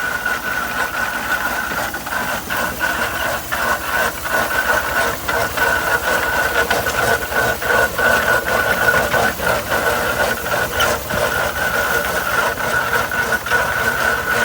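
Coal-fired half-scale 65 hp Case steam traction engine running, with a steady high-pitched tone under a quick, uneven series of knocks and clanks.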